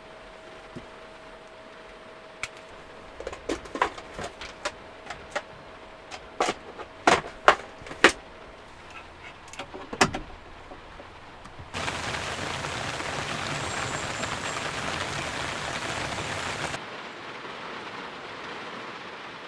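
Rain on the van under a run of sharp clicks and knocks from gear being handled and set up. About halfway through, a loud steady rushing hiss starts abruptly, lasts about five seconds and cuts off suddenly.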